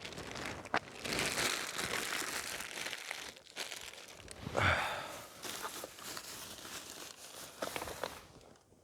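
Crinkling, rustling handling noise as naan bread is cut into pieces, with a sharp click just under a second in and a louder rustle around halfway.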